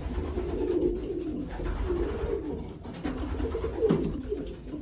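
Racing pigeons cooing, a continuous run of low, rolling coos, with one sharp knock about four seconds in.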